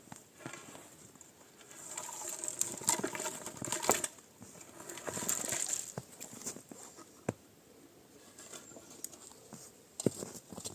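Irregular light knocks and clatter mixed with scraping and rustling that comes in bursts of a second or two, the sound of hand work on wood and debris.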